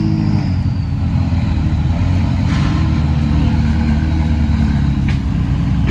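Car engines running steadily at low revs, a loud, even rumble.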